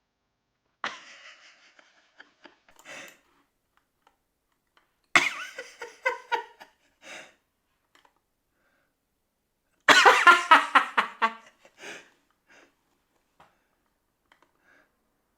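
A person laughing in three bouts, the last and loudest about ten seconds in, broken into quick repeated pulses.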